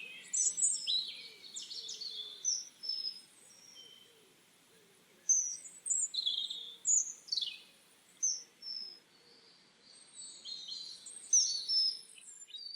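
Songbirds singing: a mix of short chirps, trills and whistled phrases, some sliding down in pitch, coming in bursts with a short lull about four seconds in.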